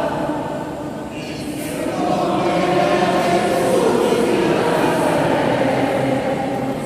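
A crowd of people singing a hymn together, many voices on long held notes, swelling louder about two seconds in.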